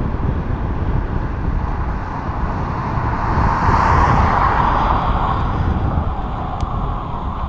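Wind buffeting the microphone of a moving bicycle, with a vehicle passing by that swells and fades about four seconds in.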